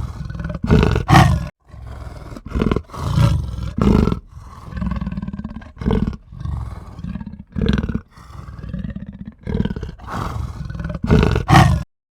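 An animal's repeated low, rough growling calls, one after another with short breaks, ending abruptly in silence near the end.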